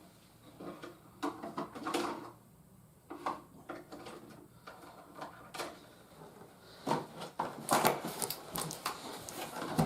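Plastic toy parts and packaging being handled: scattered clicks and knocks, then a denser stretch of crinkling and rattling from about seven seconds in.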